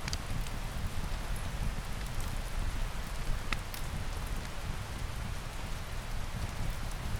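Steady rain falling on a surface, an even hiss with a low rumble beneath it, broken by a few sharp clicks.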